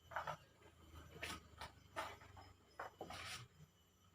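Faint handling noises: about six short rustles and scrapes, spaced unevenly.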